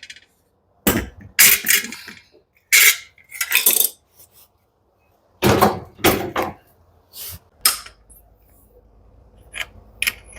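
Metal parts and hand tools clinking and clattering in a series of separate knocks while a tumble dryer's motor and blower assembly is taken apart.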